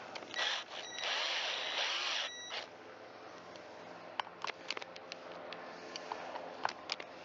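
A cordless power driver runs briefly, then for about a second and a half, a whirring with a steady whine over it, driving small screws into the chainsaw. Scattered small clicks and taps of tools and parts being handled follow.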